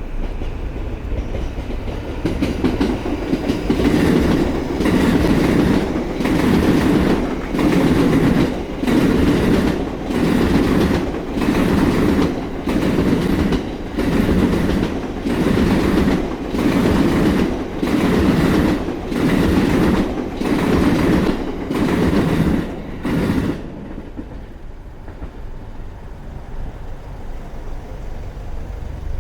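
Electric passenger train passing on steel rails, its wheels clacking over the rail joints in a steady rhythm of about one beat a second. The clacking stops abruptly about three-quarters of the way through, leaving quieter background noise.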